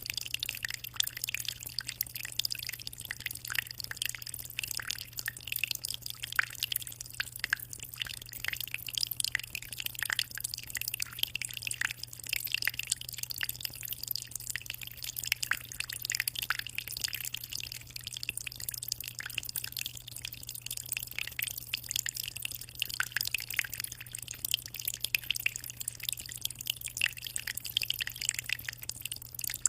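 Aquarium water trickling and dripping continuously at the tank's surface, a dense patter of small splashes, over a steady low hum.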